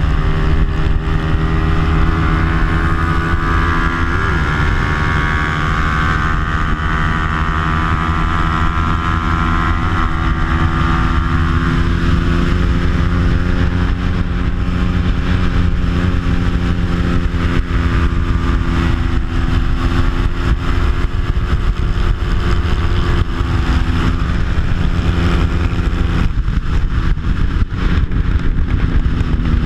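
Racing motorcycle's stock Bajaj Pulsar 200 four-stroke engine with an aftermarket exhaust, running hard at high revs on track. Its pitch rises and falls with the throttle, dropping sharply and picking back up near the end, over steady wind rush.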